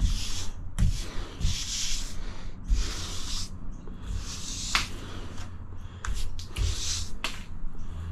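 Grout being worked across tiles in repeated scraping, rubbing strokes, about one a second, with a few sharp light knocks among them.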